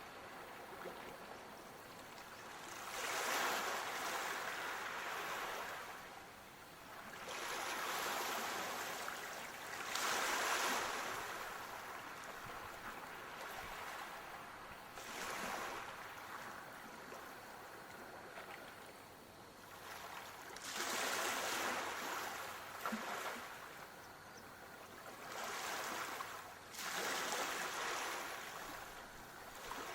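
Sea waves washing onto a shore, the rush of water swelling and fading every few seconds.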